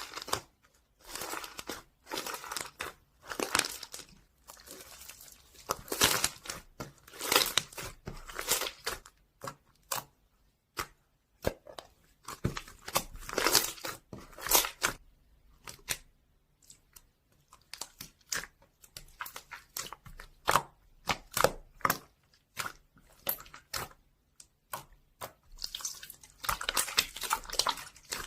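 Crinkling and tearing noises in short, irregular bursts with brief pauses between them.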